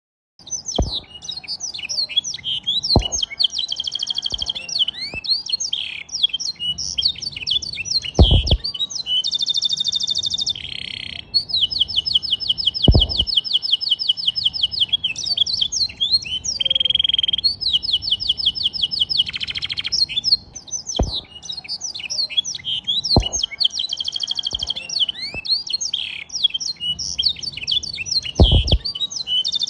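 Domestic canary singing a long, continuous song of quick varied chirps and rapid rolling trills, its repertoire tutored with blackthroat song. A few short low thumps sound under the song.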